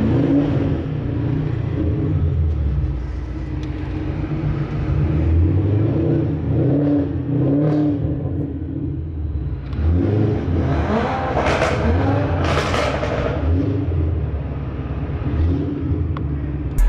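Car engines idling with a low rumble, revved a couple of times a little past the middle.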